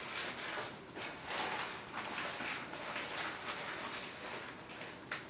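Close-up chewing of steak: a string of irregular soft mouth sounds, several a second.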